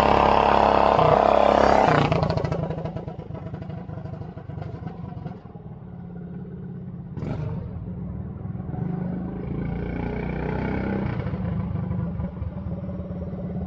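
Coleman B200R minibike's single-cylinder engine running hard at high revs, then falling off sharply about two seconds in and running much lower, with the sound slowly building again toward the end.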